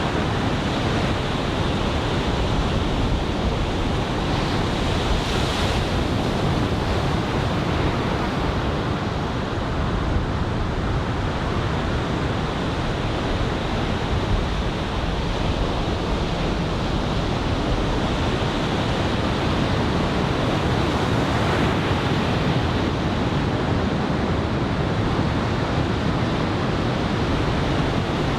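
Ocean surf from a typhoon swell washing in as a steady rush, with a wave breaking a little louder about five seconds in and again past twenty seconds, and wind on the microphone.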